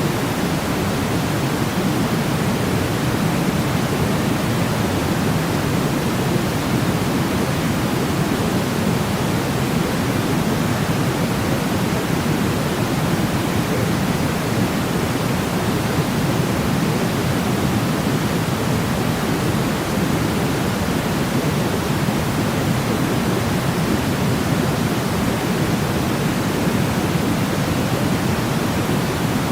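Steady sleep noise: an even, unbroken hiss weighted toward the low end, like pink noise, with no changes or events.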